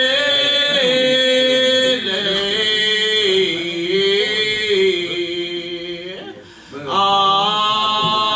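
Singing of a slow gospel hymn, the words stretched into long held notes that slide from pitch to pitch, with a short break about six and a half seconds in.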